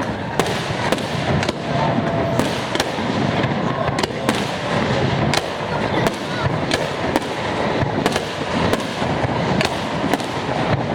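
Fireworks display: a continuous run of sharp bangs from exploding shells, about one and a half a second at uneven intervals, over a steady noisy background.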